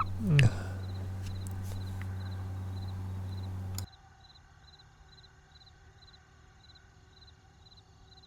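Crickets chirping steadily, about four chirps a second. A low steady hum lies under them and cuts off suddenly about four seconds in. A brief loud falling sound comes right at the start.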